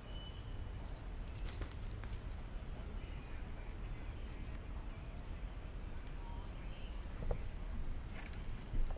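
Outdoor background noise: a steady low rumble with a steady high-pitched hiss over it and scattered faint short chirps.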